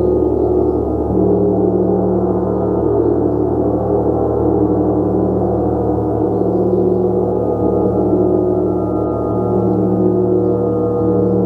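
A gong played continuously, building a dense, sustained wash of overlapping tones. It is rich in the low and middle range and swells and shifts every second or so as it is kept going with soft strikes.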